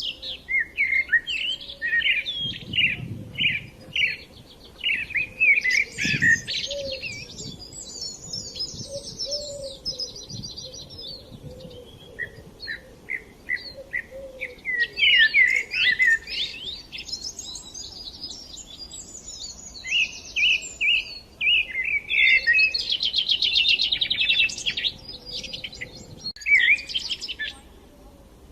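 Small songbirds chirping and singing: overlapping runs of quick repeated notes and fast trills, with short pauses now and then.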